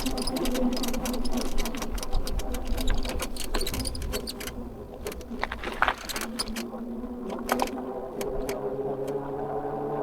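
E-bike riding along with a rapid, dense clicking and squeaking from its drivetrain, which the rider puts down to a bike that needs greasing. After about four and a half seconds this thins to scattered ticks, over a steady hum.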